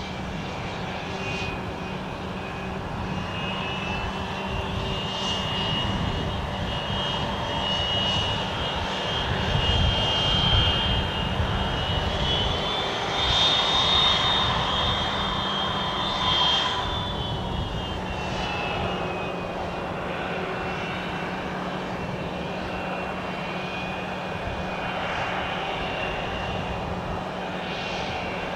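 Embraer Legacy 650 business jet's twin Rolls-Royce AE 3007 turbofans running, a rumble under a high whine. The whine rises in pitch and grows louder about halfway through, then eases back down.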